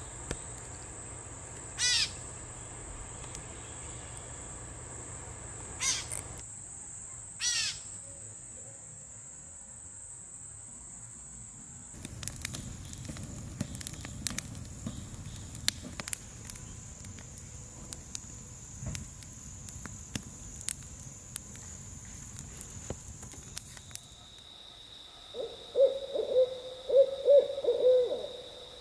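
An owl hooting, a quick series of low notes near the end, over a steady high-pitched insect trill that gives way to a lower steady trill shortly before the hoots.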